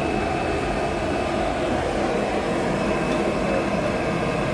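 A blacksmith's forge fire and its air blast making a steady rushing noise, with no hammer blows.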